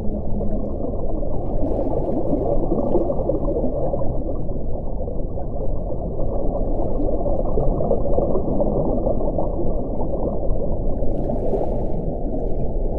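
Wind blowing steadily as a deep, low rumble. A low moaning tone fades out in the first second.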